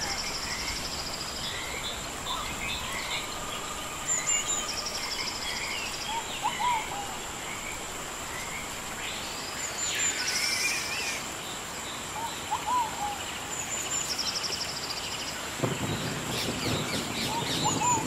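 Rainforest ambience: many birds chirping and calling over a steady hiss, with a buzzy trill that repeats every few seconds and a two-note call now and then, under a continuous high-pitched whine. A low rumble comes in near the end.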